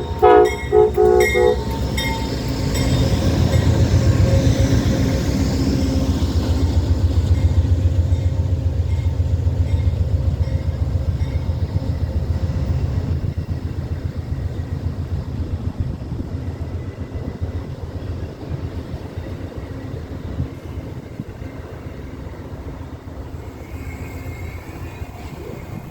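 Amtrak passenger train's locomotive horn ending a salute with a few short blasts in the first second and a half, then the train rolling past with a steady low rumble that is loudest over the first ten seconds or so and slowly fades as it pulls into the station.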